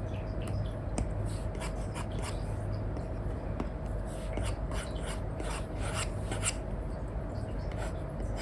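Apple Pencil 2 with an Elecom tip scratching over a paper-like screen film on an iPad in many short, quick colouring strokes. There is a steady low hum underneath.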